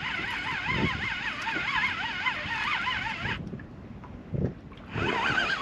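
Fishing reel being wound in, its gears giving a whine that rises and falls with each turn of the handle, over low knocks. The winding stops about three and a half seconds in and starts again near the end.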